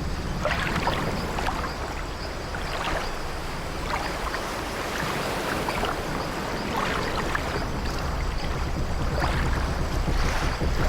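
Old wooden sailing ship creaking again and again over the wash of sea waves, with a steady low rumble beneath.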